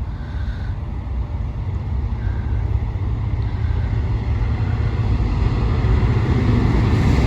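Class 69 diesel locomotive, with its EMD 710 engine, approaching on a slow engineers' train: a low engine rumble getting steadily louder.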